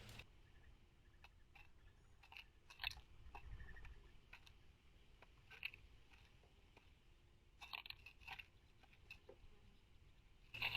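Near silence, broken by a few faint, scattered clicks and taps, some in small clusters.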